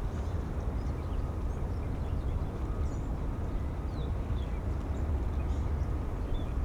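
Wind buffeting the microphones as a steady, gusty low rumble, with a few faint bird chirps above it.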